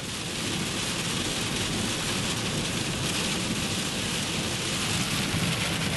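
Heavy rain pelting a moving car, a steady hiss over the low rumble of the road and engine, heard from inside the cabin.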